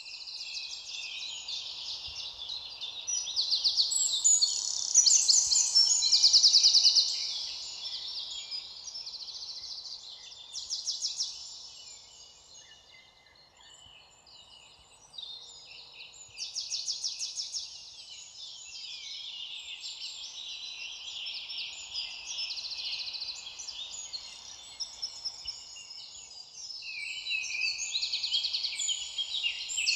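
Several songbirds singing at once, overlapping rapid trills and chirping phrases, loudest about four to seven seconds in, over a faint steady background hiss.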